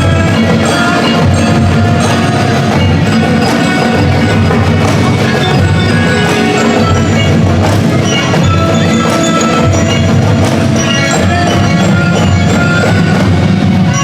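Marching band playing a tune without a break, with bright mallet-percussion notes over drums.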